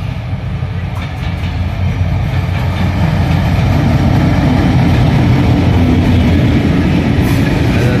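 Diesel locomotive hauling a passenger train. Its engine rumble grows louder over the first few seconds as it approaches and passes close by, then the coaches run past.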